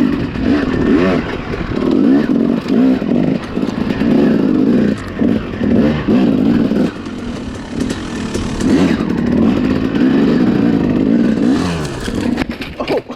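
Small dirt bike engine revving in repeated short bursts, pitch rising and falling as the rider throttles on and off to climb over slick rocks. The engine drops off about a second before the end.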